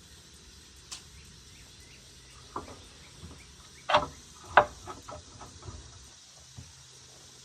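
A few sharp knocks and clinks, as of hand tools and metal parts being handled during work on the machine: two loud ones about four and four and a half seconds in, then several lighter clicks.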